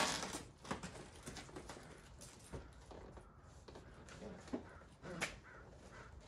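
Scattered knocks and scuffs from handling the heavy boxed table saw. The sharpest knocks come at the start, just under a second in, and about five seconds in.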